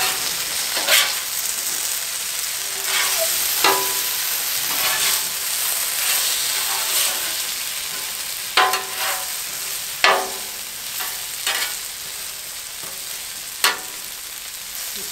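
Sliced potatoes sizzling in melted butter on a Blackstone flat-top griddle, with a metal spatula scraping and clacking against the steel cooktop several times as they are turned and spread out.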